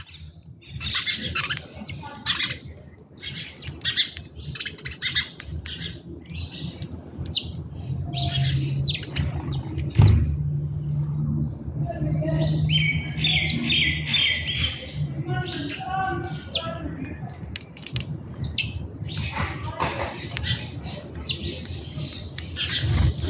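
Birds chirping and squawking at a feeding spot: short chirps come one after another, with a dense run of rapid calls about thirteen to fifteen seconds in. A single thump is heard about ten seconds in.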